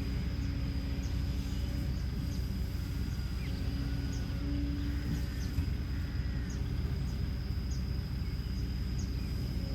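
Kobelco SK210LC excavator's Hino J05E-TG four-cylinder diesel running steadily at idle, with a thin high steady whine above it. Short bird or insect chirps come and go throughout.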